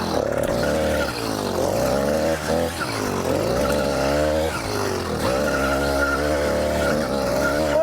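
Small 80cc two-stroke engine bolted to a mountain bike, revving up and down as the throttle is worked on a downhill trail, its pitch rising and falling several times.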